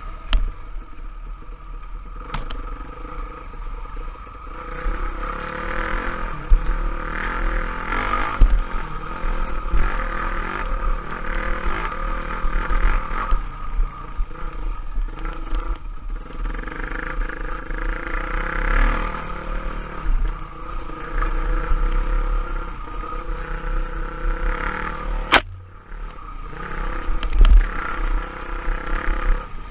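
Off-road trail bike engine running under varying throttle as it is ridden, with rattles and knocks over a low rumble. A sharp knock comes near the end, and the engine briefly drops away after it.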